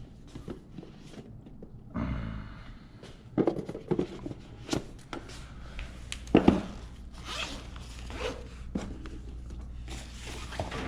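Rustling, scraping and clicking of objects being handled, in irregular short bursts, with a sharper knock about six and a half seconds in. A low steady hum sets in about two seconds in.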